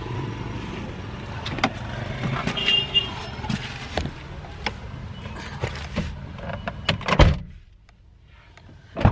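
Vehicle engine and street noise with scattered knocks and clatter. A loud thump about seven seconds in is followed by a much quieter stretch, and there is another thump near the end.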